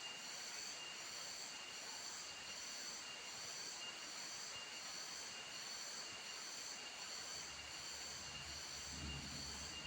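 Steady rain falling, with high-pitched steady tones and a short high chirp repeating about every three-quarters of a second over it. A low rumble builds in near the end.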